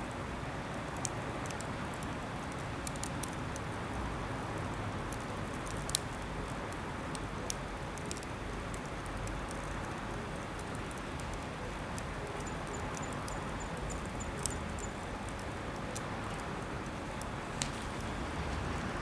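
Wood campfire burning, with irregular sharp crackles and pops over a steady hiss.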